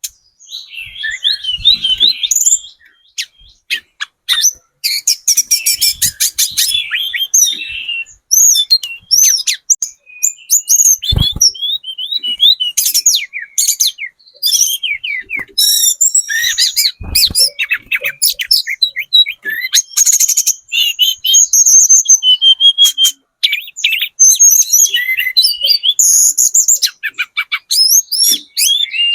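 Spotted tledekan gunung singing a fast, high-pitched song of chirps and rattling trills, almost without a break. Two dull knocks come in the middle.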